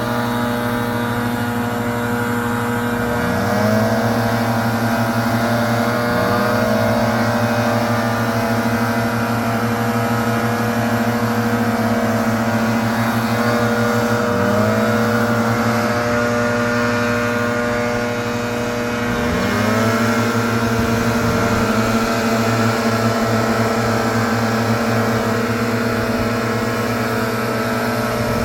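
Leaf blower engine running steadily at speed, its pitch rising briefly several times as the throttle is opened up.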